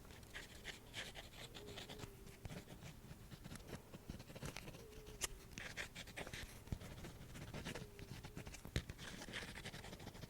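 Soft, quick scratching and light clicking taps close to the microphone, with a few sharper clicks among them.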